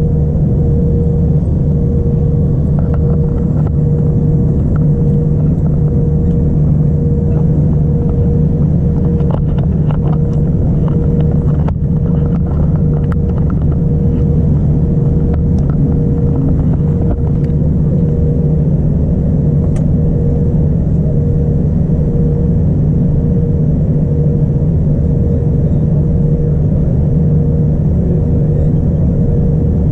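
Steady drone of a Boeing 787-9 airliner in flight, engine and airflow noise heard inside the cabin as a loud low rumble with a constant hum, and a few faint clicks in the middle.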